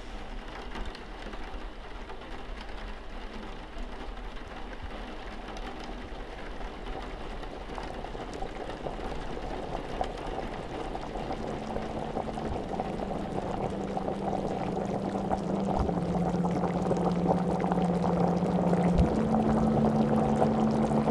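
Water heating in a saucepan on a gas stove: a hissing, bubbling noise that grows steadily louder as it nears the boil. Low held tones that shift in pitch join about halfway through.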